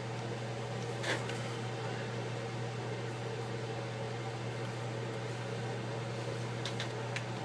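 Steady low mechanical hum with a light click about a second in and two faint ticks near the end, small handling sounds from work on an iPad's digitizer glass and cables.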